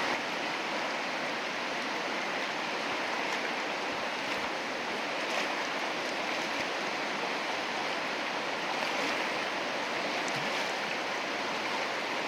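Whitewater rapids of a river rushing, a steady loud hiss of churning water.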